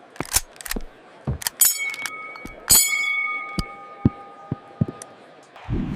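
Scattered sharp clicks and knocks, with two bell-like metallic dings about a second apart near the middle, each ringing on for a second or two. A low rumble swells in just before the end.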